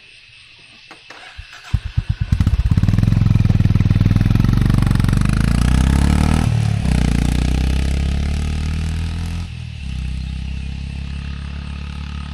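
Honda H'ness CB350's single-cylinder engine cranked on the starter, catching about two seconds in. It runs loudly with a couple of throttle changes, then settles to a steadier, quieter idle.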